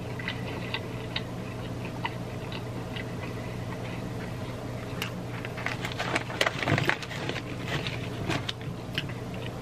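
Close-miked chewing of crunchy food: a string of small crisp crackles and crunches, sparse at first and busier and louder from about five seconds in, over a faint steady low hum.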